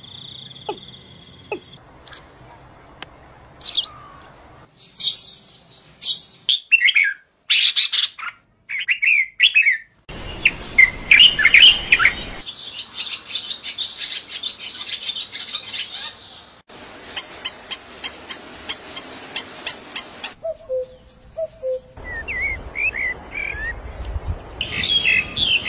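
Small birds chirping in many short, rising and falling calls, heard across several clips cut together, one of which holds a run of sharp clicks.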